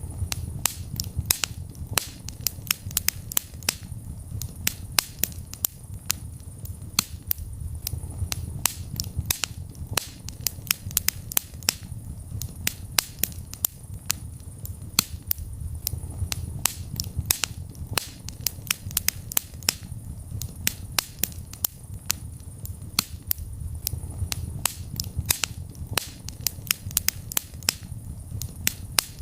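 Wood fire crackling in a fireplace: frequent sharp pops and snaps, several a second, over a steady low rumble of the flames.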